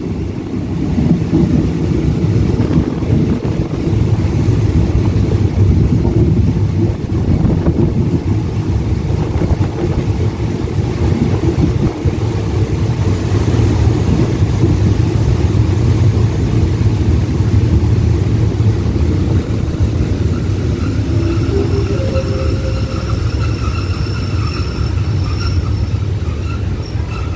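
Passenger train carriage rolling along the track, a steady rumble of wheels on rail heard through an open carriage doorway. Near the end a high metallic squeal sets in as the train brakes into the station.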